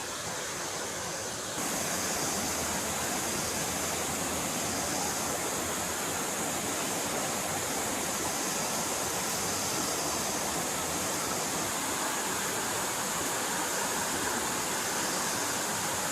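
Stream water flowing and rushing steadily. It gets louder suddenly about a second and a half in.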